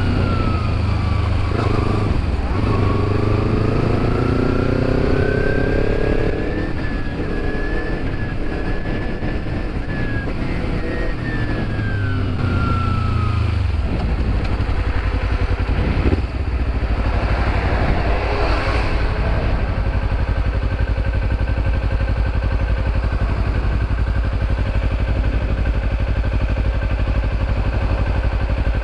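Motorcycle engine running while riding, its pitch rising and falling over the first half, then a steadier drone.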